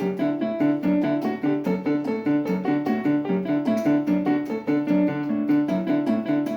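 Piano-style keyboard playing the instrumental accompaniment of a children's song: a quick, even run of notes over a repeating bass line.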